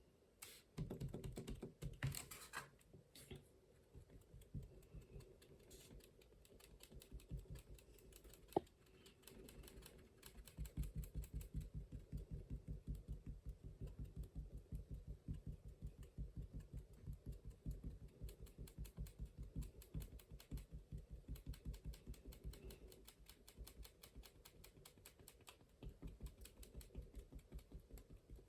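Rapid stippling taps on watercolour paper, dotting paint around the centre of a sunflower, several light taps a second with a short pause about a third of the way through.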